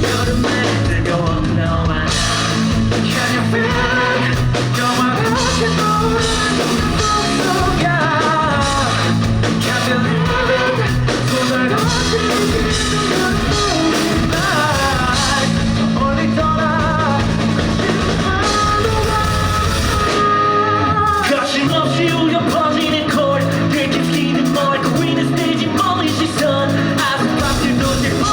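Live rock band performance: drum kit, bass and electric guitars with a singer, recorded from the audience. About twenty seconds in, the bass and drums drop out for a moment before the full band comes back in.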